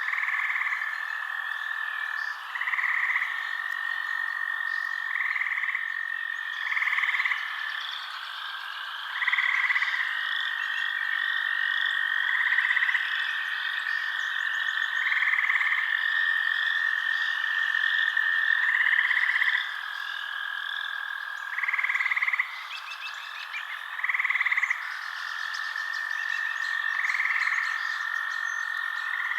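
Night chorus of frogs: a steady high trill runs under louder calls of under a second that repeat about every two seconds, with busy chirping above them.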